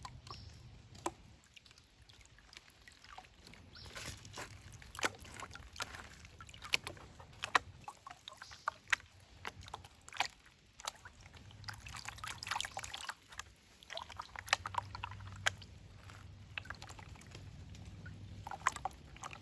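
Water sloshing and trickling in a gold pan as it is swirled and tipped to wash off light material down to the heavy sand, with irregular sharp clicks throughout.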